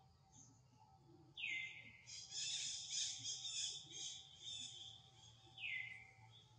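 A bird calling: a clear high whistle falling in pitch about a second and a half in, then a few seconds of rapid high chirping notes, and a second falling whistle near the end.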